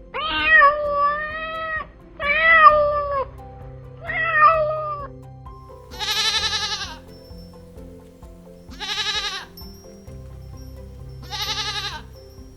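A cat meowing three times with long, drawn-out meows, followed by three shorter, shriller, wavering calls spaced a couple of seconds apart, over background music.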